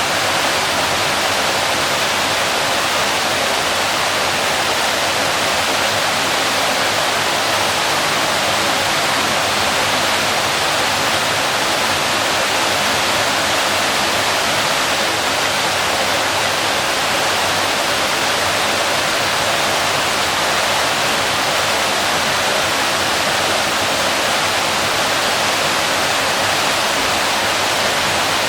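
Waterfall: a steady, unbroken rush of falling water, loudest in the mid and upper range.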